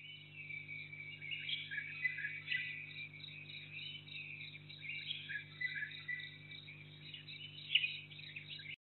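Birds chirping outdoors, heard through a security camera's built-in microphone: thin and cut off above a mid pitch, over a steady low electrical hum. The sound stops abruptly at the end.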